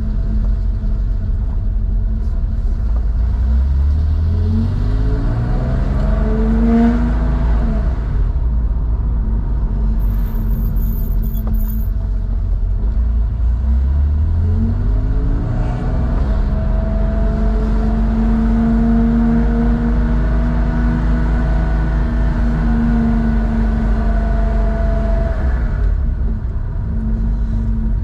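Air-cooled flat-six of a 1987 Porsche 911, enlarged to 3.4 litres, through a SCART two-in-one-out muffler while driving. The revs climb twice, dropping back after the first climb; after the second they are held steady for about ten seconds, then fall near the end.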